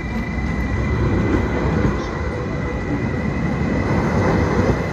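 Electric commuter train moving past close by on the platform track: a steady rumble of wheels and running gear, with a thin, steady high whine.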